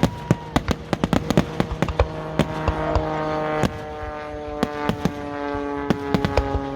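Aerial fireworks crackling and popping: many sharp reports in quick, irregular succession, over steady held tones.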